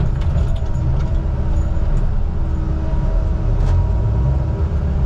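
A log truck's diesel engine running steadily: a constant low rumble with a faint steady hum over it.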